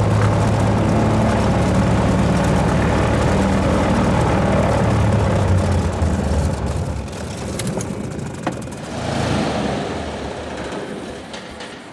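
Cessna 182's piston engine and propeller running steadily, the drone weakening about six seconds in, with a few sharp clicks after.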